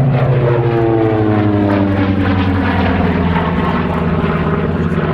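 Curtiss SB2C Helldiver's Wright R-2600 radial engine and propeller running loud in a flyby, the engine note falling in pitch as the plane passes.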